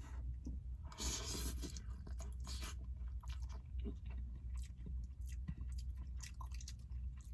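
A person chewing a mouthful of ramen noodles close to the microphone, with many small wet clicks and a brief noisy burst about a second in, over a steady low hum.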